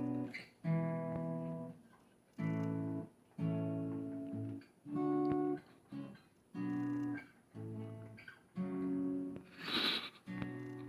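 Acoustic guitar playing chords, each strummed and held for under a second with short gaps between. A brief hiss about ten seconds in.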